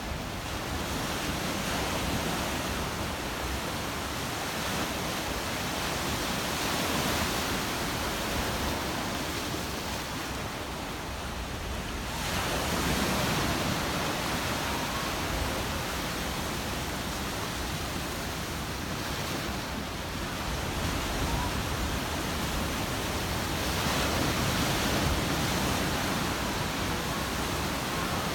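Heavy storm surf: a steady rush of breaking sea waves that swells louder every several seconds as bigger waves come in.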